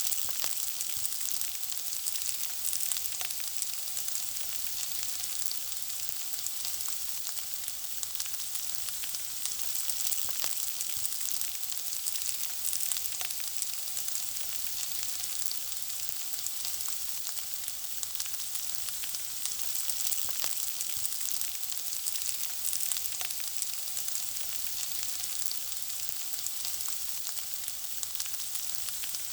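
Food frying in hot oil: a steady high sizzling hiss dotted with many small crackles and pops.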